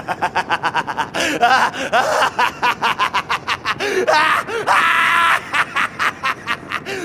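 Anime sound effects of a collapsing castle: rapid crashing of falling rubble, mixed with strained cries and groans, with a held scream about five seconds in.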